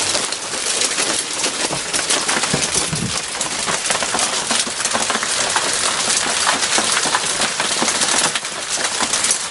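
Hail pelting down, a dense, steady clatter of hailstones striking the ground and nearby surfaces.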